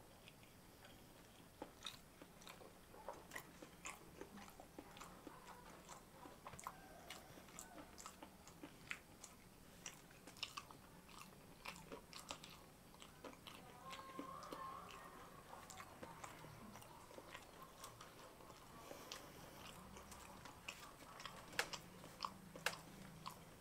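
Faint, close-up mouth sounds of a person chewing a mouthful of rice and semur jengkol, a stew of jengkol (dog fruit) in sweet soy sauce: irregular small wet clicks and smacks.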